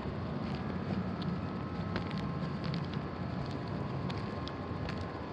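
Steady outdoor background noise, with a few faint ticks.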